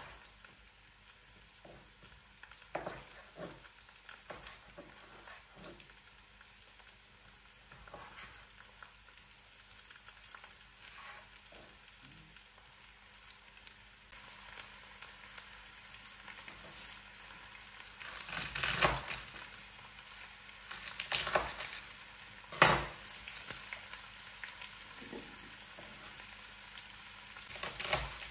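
Food sizzling in a frying pan while a utensil stirs and scrapes it, with scattered knocks against the pan. The sizzle gets louder about halfway through, and the sharpest knock comes near the end.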